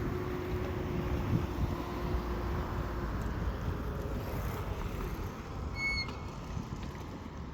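Steady low rumble of outdoor vehicle traffic, with a motor's steady drone that stops about three seconds in. A single short, high chirp sounds about six seconds in.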